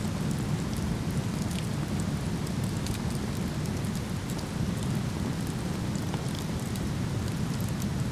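Steady low rush of a waterfall, with a wood fire crackling in scattered sharp pops over it.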